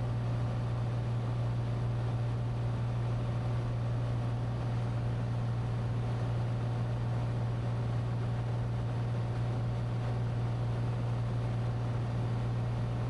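Cessna 182T's six-cylinder Lycoming IO-540 engine and propeller droning steadily in cruise, heard inside the cabin: an even low hum with a steady wash of noise above it.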